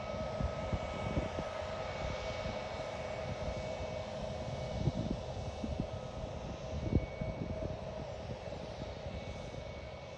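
Aircraft engine running steadily with a constant whine, with irregular low thumps underneath.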